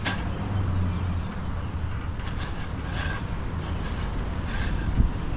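A 30-inch bow saw cutting through a tree limb, its blade rasping through the wood in uneven strokes about once a second, over a low steady rumble. A dull thump near the end.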